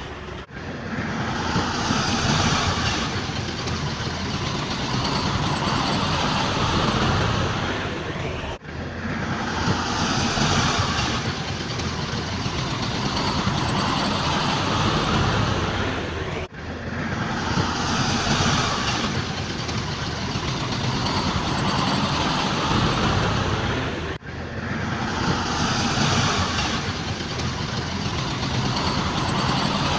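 Heavy earthmoving machinery running: a steady diesel rumble with hiss and clatter. The same stretch of sound repeats about every eight seconds, each time after a brief dropout, as if looped.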